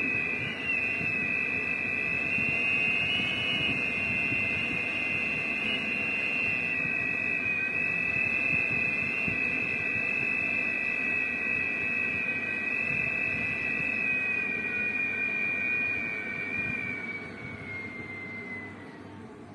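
Strong wind blowing with a steady high-pitched whistle over a broad rushing noise. Both fade over the last few seconds as the whistle sinks slightly in pitch.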